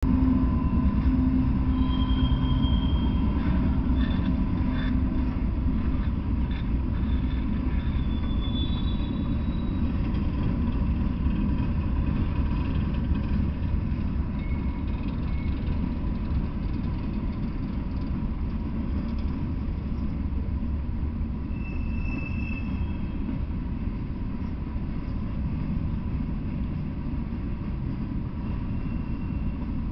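Freight train passing close by: a diesel locomotive going by at the start, then hopper cars rolling past with a steady, heavy rumble of wheels on rail. A few brief faint wheel squeals rise over the rumble.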